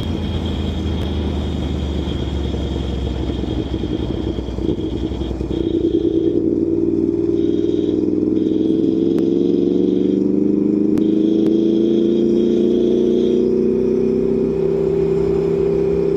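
V4 engine of a 2018 Aprilia Tuono V4 1100 Factory motorcycle under way, with wind rushing, heard from inside the rider's helmet. About five seconds in the engine note comes forward and climbs slowly and steadily as the bike gathers speed.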